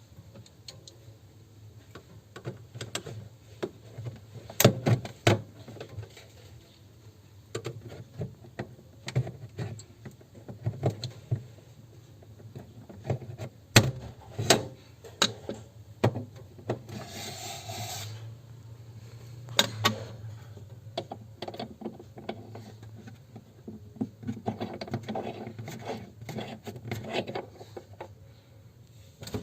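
Hands working at a refrigerator's interior lamp: irregular plastic clicks and knocks with rubbing and scraping, a longer scrape about halfway through, and a busy run of clatter near the end.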